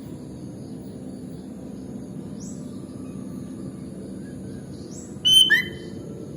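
Sooty-headed bulbul giving one short, loud burst of clear whistled notes about five seconds in, over a steady background hiss. Faint short rising chirps sound higher up in between.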